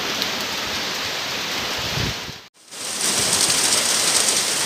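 Steady rain falling on roofs and foliage, an even hiss. It cuts out for a moment about halfway through, then comes back brighter.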